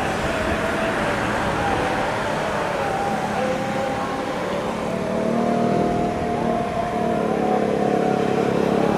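Jet aircraft engine noise at a distance: a steady rumble with a wavering whine, joined by a lower, louder hum about five seconds in.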